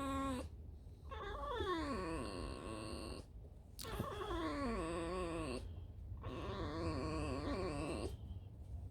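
A tame fox making its squeaky whining vocalisation ('скрип', a creaking squeak): three long calls with short pauses between them. The first call falls in pitch and the other two waver up and down.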